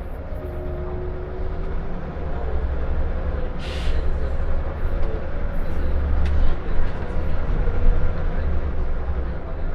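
Scania L94UB Wright Solar single-decker bus heard from on board, its engine and drivetrain giving a steady low rumble as it drives. A short hiss comes about four seconds in.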